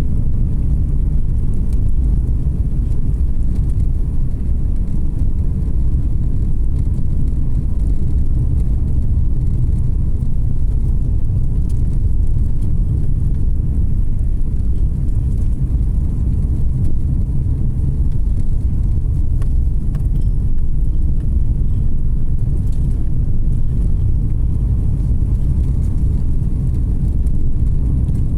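Car driving at a steady pace: a continuous low rumble of tyres on the road and the engine.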